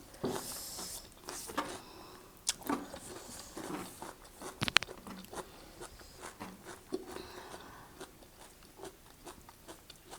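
Close-up eating sounds: chewing and biting of spicy Korean instant noodles and omelet, with scattered sharp clicks, the loudest a little under five seconds in.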